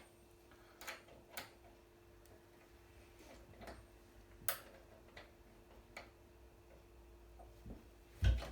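Irregular metallic clicks of a socket wrench being fitted and turned on a washing machine's transit bolt while it is loosened, with a heavier thump near the end.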